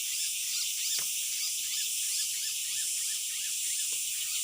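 Outdoor nature ambience: a steady high-pitched hiss with many short chirping animal calls repeating a few times a second, and a faint knock about a second in.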